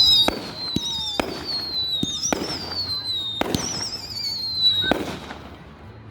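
Fireworks going off in quick succession: a sharp bang about once a second, each followed by a high whistle that wavers and slowly falls in pitch. The volleys stop and the sound fades near the end.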